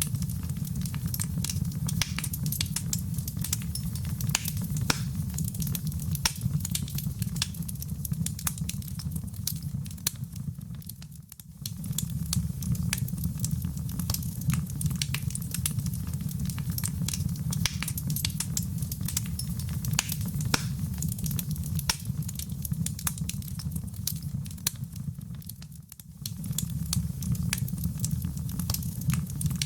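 Wood fire in a fireplace burning with a steady low rumble and constant sharp crackles and pops. The sound dips briefly twice, about a third of the way in and near the end.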